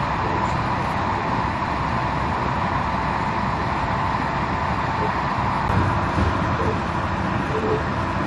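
Train in motion heard from inside a passenger carriage: steady running noise with a constant faint whine held at one pitch.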